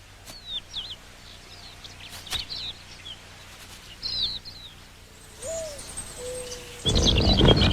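Bird calls: short, high, falling chirps repeated in small groups, with one sharp click about two seconds in. A lower, brief call with a short held note follows. A much louder mix of sound comes in just before the end.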